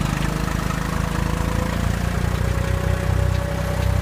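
Tractor engine running steadily at a low, throbbing note, with a thin steady whine above it that steps slightly higher in pitch a little past halfway.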